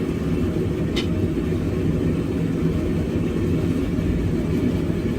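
Propane forge burner roaring steadily, a low, even rush, with one faint click about a second in.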